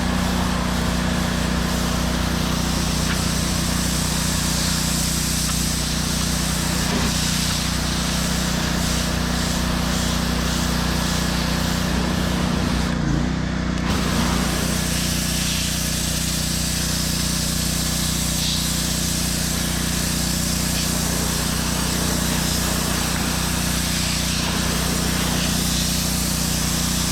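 Pressure washer running: a steady engine hum under the hiss of a high-pressure water jet spraying concrete. The hiss cuts out for about a second near the middle, then resumes.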